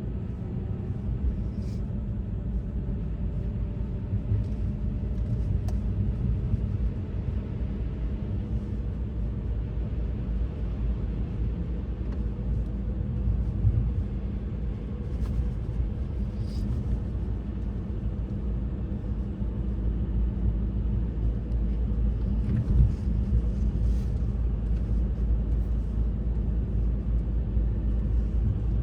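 Steady low rumble of a vehicle running, with a few faint ticks over it.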